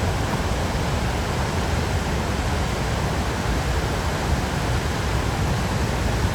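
A large waterfall rushing with a steady, even noise that fills the whole sound with no breaks.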